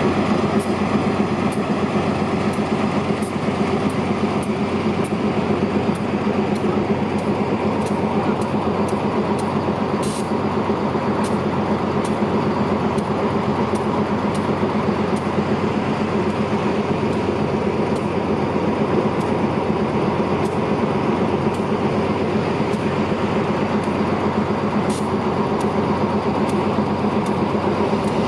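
Diesel-electric locomotive GEA 4534 idling steadily at a standstill, with light clicks ticking over the engine hum. The locomotive has broken down and is stopped for water.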